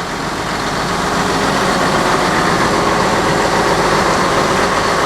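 Mitsubishi diesel engine of a Kato excavator running steadily, growing louder over the first second or so and then holding.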